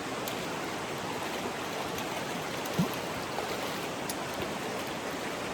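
Stream water rushing steadily over the streambed, with one brief thump a little under three seconds in.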